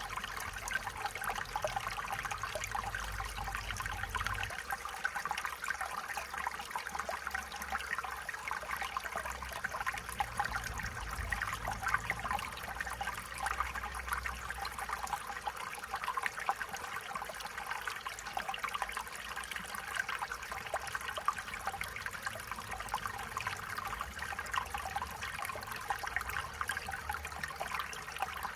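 Stream water running and trickling over rocks, a steady babble of small splashes.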